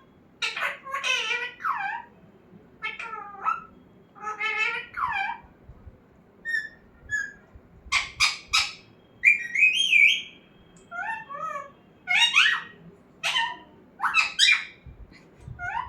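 A pet parrot giving a run of about a dozen short, high squawks and whistled chattering calls, each rising and falling in pitch, with brief pauses between them.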